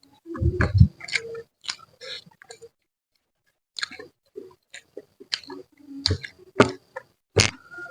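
A person eating close to the microphone: chewing with irregular sharp mouth clicks, pausing for about a second midway.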